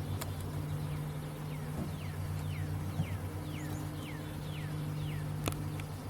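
Honeybee swarm humming steadily. A bird sings a run of short descending whistles over it, and there is one sharp click near the end.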